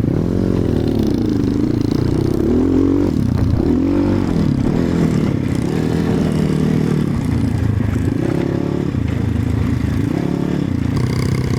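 Enduro motorcycle engine revved repeatedly, its pitch rising and falling again and again, as the rider works the throttle to get the bike moving.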